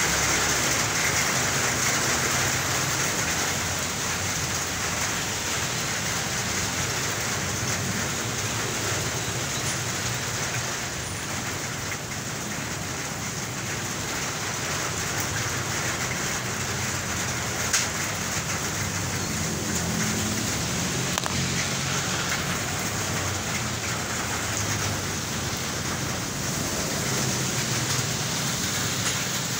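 Heavy rain pouring down steadily, with road traffic rumbling underneath. A single sharp tap about eighteen seconds in.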